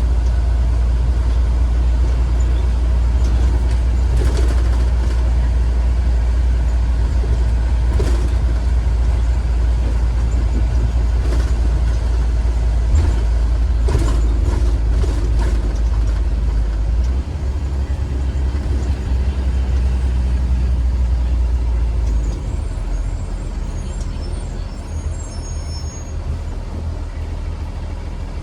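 2015 Blue Bird Vision school bus driving, a steady deep engine and road rumble with occasional knocks and rattles. The rumble eases about two-thirds of the way in and drops again a few seconds later, as the bus slows.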